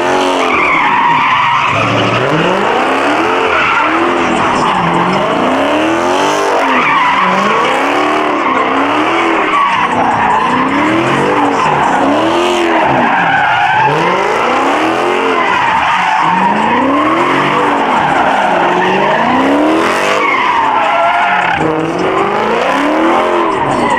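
A muscle car's engine revving up and down over and over while its tyres squeal and skid, as in a burnout or donuts in the pit. The engine note rises and falls every second or two over the continuous hiss of spinning tyres.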